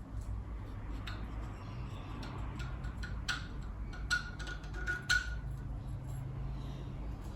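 A few sharp metallic clinks of hand tools and parts being handled, several ringing briefly, over a steady low hum.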